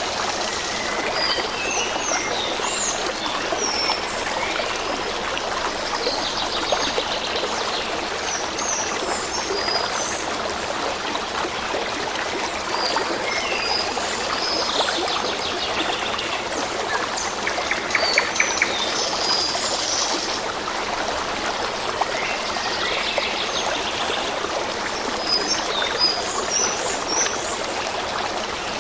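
A stream running steadily, with songbirds chirping and trilling in short phrases throughout.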